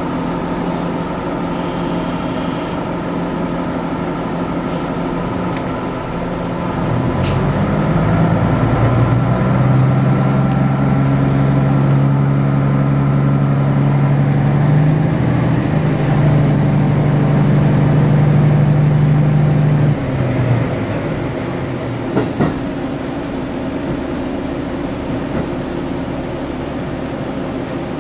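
Inside a train: a steady hum while it stands, then about seven seconds in a sharp click and a louder, deeper drone as the train pulls away and its drive works hard. About twenty seconds in the drive eases off suddenly and the train rolls on more quietly.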